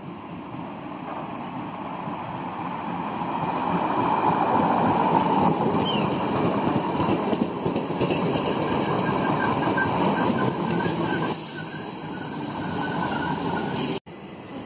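Southern Class 377 electric multiple unit passing on the far track: the rumble of its wheels on the rails grows as it approaches, stays loud as it goes by, then fades, with a faint high tone as the carriages pass. The sound breaks off abruptly near the end.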